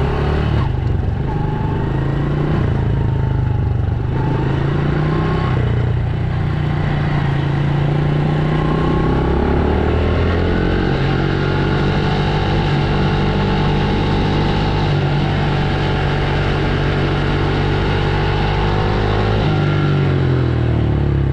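Dirt bike engine running under throttle as it is ridden, its pitch rising and falling with the revs and gear changes.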